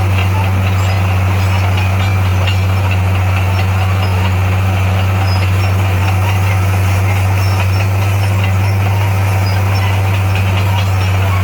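Heavy diesel engine running at a steady speed, a constant low drone with no revving.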